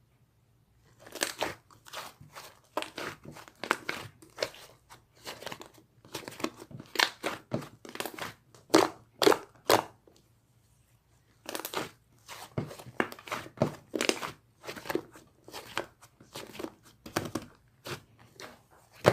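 Slime being squished and pressed by hand: an irregular run of crackly, popping squelches, a few a second, pausing for about a second and a half halfway through.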